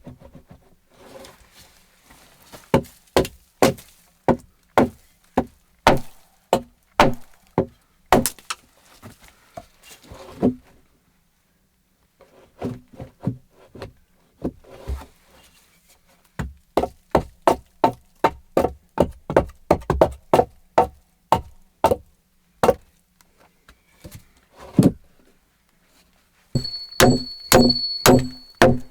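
Repeated hammer blows on wood, coming in runs of two to three strikes a second with short pauses between. Near the end the blows come faster and ring with a high metallic tone.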